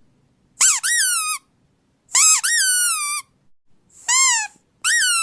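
A puppy howling: four high howls, each rising and then sliding down, the last one held longest.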